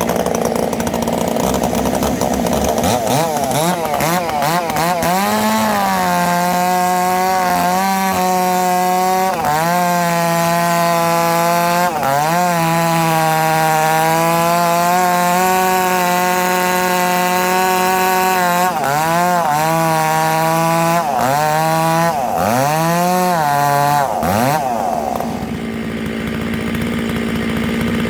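Stihl MS 660 two-stroke chainsaw at full throttle ripping dry larch lengthwise. A few seconds in, the engine pitch drops as the chain bites into the wood, and it dips and recovers again and again under load. Near the end it rises back to free-revving as the saw comes out of the cut.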